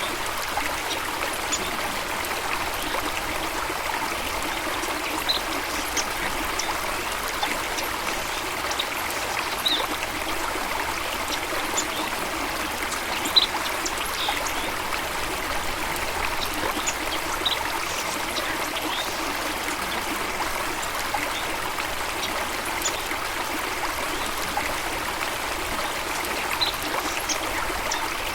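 Running water of a stream, a steady rushing trickle, with a few brief high-pitched ticks scattered through it, the sharpest about halfway through.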